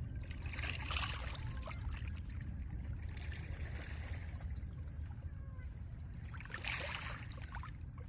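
Small lake waves breaking and washing over a pebble shore, three washes a few seconds apart, each with a fine crackle of stones. Under them runs a steady low rumble of wind.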